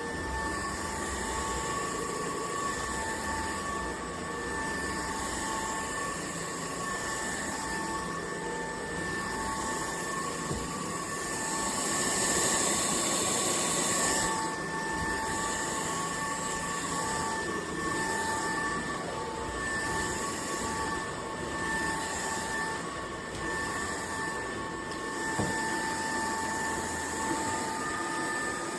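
UNINELL UV3 cordless stick vacuum running, a steady high motor whine over rushing airflow, growing louder for a couple of seconds around the middle.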